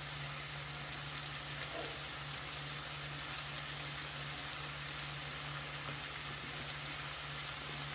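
Okra, potato and onion frying in oil in a pan: a steady, even sizzle, with a low steady hum underneath.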